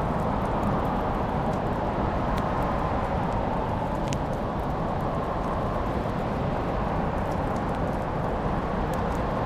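Wood fire in a fireplace burning with a steady low rush, broken by scattered sharp crackles and pops, two of them clearer, about two and a half and four seconds in.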